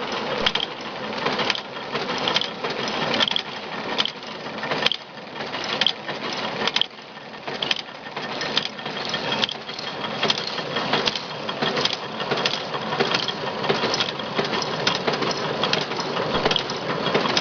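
Spoke swaging machine running, tapering a motorcycle or bicycle spoke: a steady run of repeated sharp clacks at an even pace over a continuous mechanical noise.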